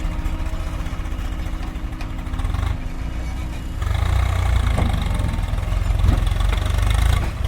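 JCB 3DX backhoe loader's diesel engine running steadily, then revving up under load about four seconds in. It holds there for about three seconds and drops back near the end.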